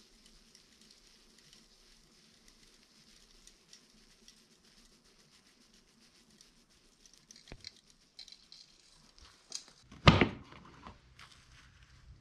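Loose foundry sand pattering and trickling, then scattered small clicks and one sudden loud knock about ten seconds in, typical of a sand mold being broken open to free the aluminium casting.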